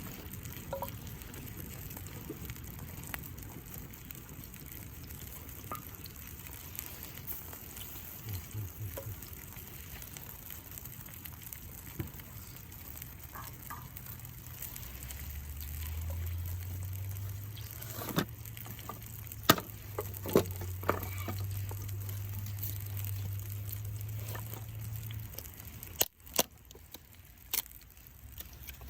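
Hamburger steaks sizzling steadily in a cast-iron skillet over a campfire. Several sharp knocks come about two-thirds of the way through and again near the end.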